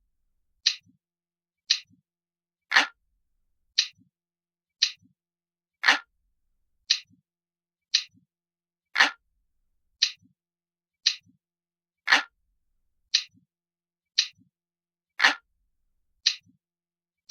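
Clock ticking steadily, about one tick a second, every third tick louder and fuller than the two before it.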